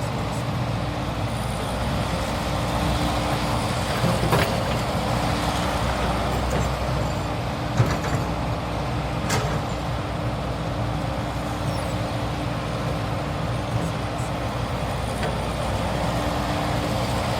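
Heavy diesel machinery engine running steadily under a held steady tone, with a few sharp clanks about four, eight and nine seconds in.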